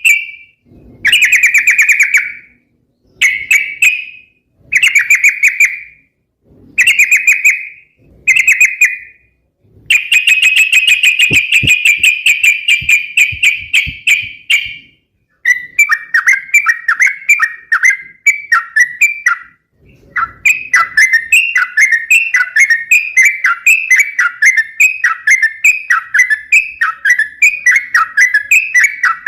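Yellow-vented bulbul (trucukan) singing loudly: short bubbly phrases of about a second each with brief pauses between them, then a longer unbroken run about ten seconds in, then a fast, continuous chain of chirping notes from about halfway through.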